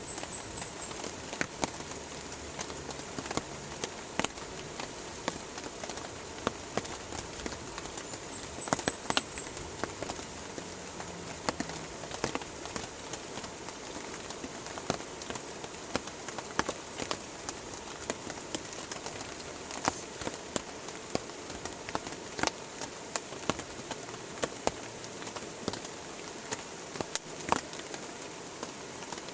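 Steady rain falling, an even hiss with scattered heavier drops ticking irregularly throughout. A short high trill sounds twice, at the start and about nine seconds in.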